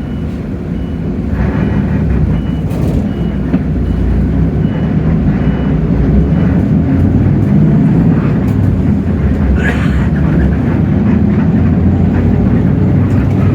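Hino J08E-VN 7.7-litre inline-six diesel of a Hino city bus running under load, growing louder over the first several seconds as the bus accelerates. A high beeping warning tone repeats about every three-quarters of a second and stops about six seconds in. There is a brief hiss about ten seconds in.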